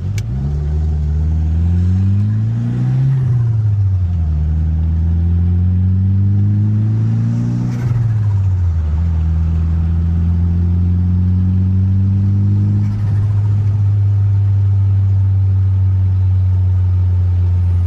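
1995 Mitsubishi Eclipse GSX's turbocharged 4G63 four-cylinder accelerating through two gears, its pitch rising then dropping at each upshift, then cruising at a steady engine speed.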